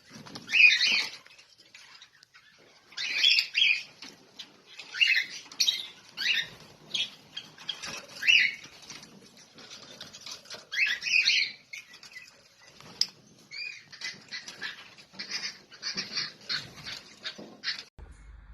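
Lovebirds chirping in quick clusters of high, short chirps, one run after another, cutting off suddenly near the end.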